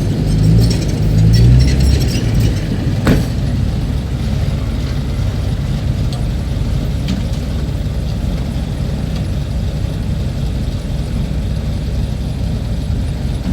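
Heavy diesel engine of a construction machine running. Its pitch shifts over the first two seconds, there is a single sharp knock about three seconds in, and then it runs steadily.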